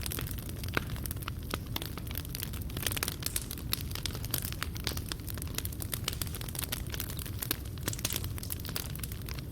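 Wood fire burning in a fireplace: a steady low rumble under many quick, irregular crackles and pops, with a few louder snaps.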